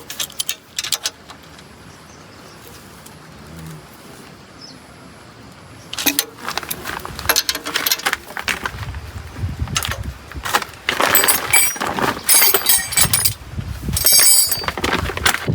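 Metal tool and part handling: a run of sharp clinks and knocks that starts about six seconds in and grows busier, with some dull thuds, over a quieter steady hiss before it.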